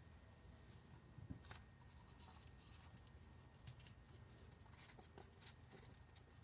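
Faint scratchy rubbing and a few soft clicks of vinyl wrap being peeled back and smoothed against a tumbler to work out an air bubble, over quiet room tone.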